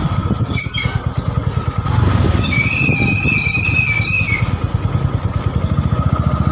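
FZi motorcycle's engine running with a steady low pulse while its rear drum brake squeals high-pitched, briefly about half a second in and again for about two seconds from around two and a half seconds in. The squeal is the drum brake noise the owner calls very noisy and sets out to cure by cleaning the brake.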